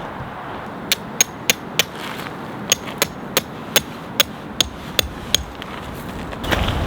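About a dozen sharp metallic knocks, two or three a second, each with a brief ring. Near the end a louder, steady rushing sound comes in.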